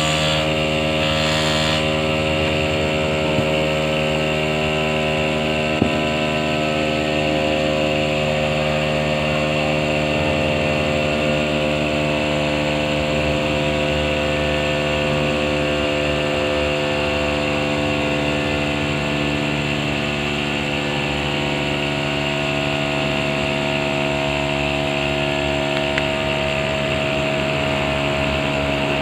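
A motor running steadily at an even speed, with a constant hum.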